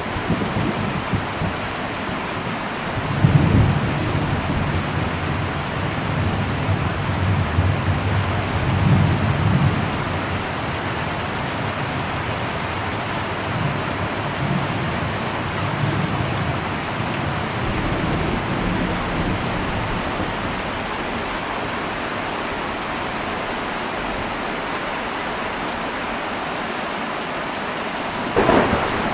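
Heavy rain falling steadily on an old metal roof, with thunder rumbling low for several seconds from about three seconds in, then a sharper, louder thunderclap near the end.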